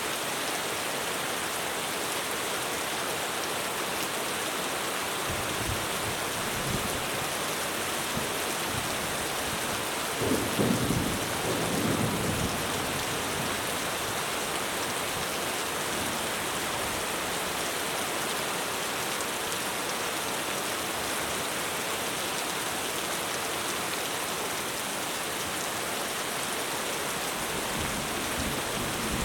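Heavy rain drumming steadily on a roof, with a roll of thunder about ten seconds in that lasts a couple of seconds.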